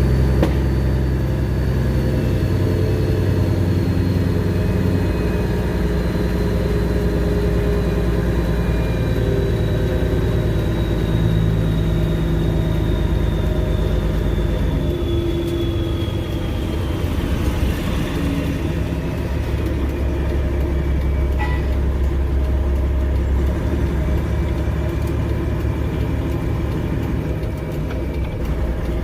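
Freightliner Classic XL semi truck's Detroit Series 60 diesel engine running at low speed while maneuvering, its note shifting in steps a few times, with a faint high whine that slowly falls in pitch.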